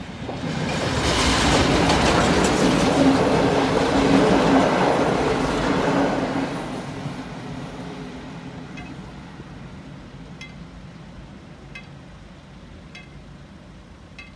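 A train passing over a level crossing, wheels clattering on the rails under a steady low hum. It is loudest in the first half and dies away over the following seconds. Faint short ticks, a little over a second apart, follow as it fades.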